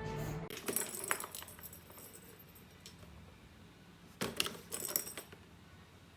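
Two short bursts of light metallic jingling and clinking, the first just after background music stops and the second about four seconds in.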